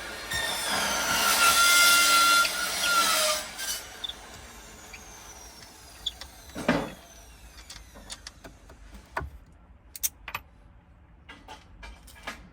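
A power tool runs with a high whine for about three seconds, then stops. Scattered light clicks and knocks follow, with one louder knock about seven seconds in.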